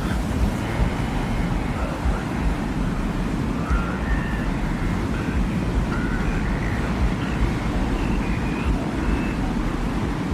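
Desert wind ambience: a steady low rushing wind, with faint short high tones drifting through it.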